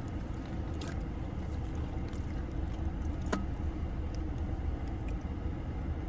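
Steady low rumble of a car heard from inside the cabin, with a couple of faint clicks.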